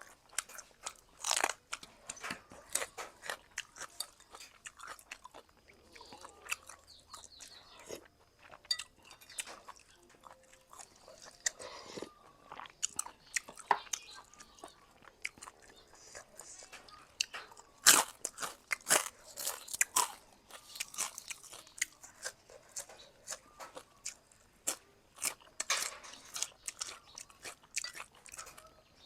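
Close-miked eating of boat noodles with sliced pork: chewing and biting, with many sharp crunchy clicks in irregular bursts, the loudest one about two-thirds of the way in.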